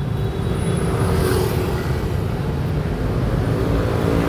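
Steady road traffic noise with a motor vehicle engine running; its pitch starts to rise near the end.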